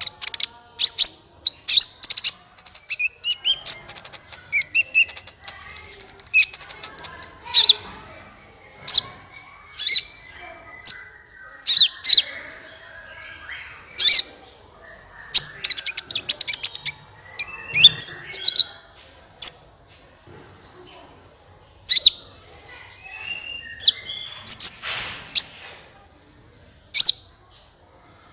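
Song of the kolibri ninja sunbird, used as a lure call. It is made of sharp, high chirps and short trilled phrases in quick, irregular bursts.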